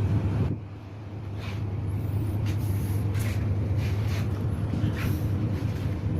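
A large vehicle engine running with a steady low hum, with a few short higher squeaks or hisses over it.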